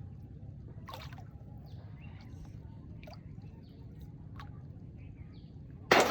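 Water splashing suddenly and loudly near the end, over a steady low outdoor rumble with a few faint ticks.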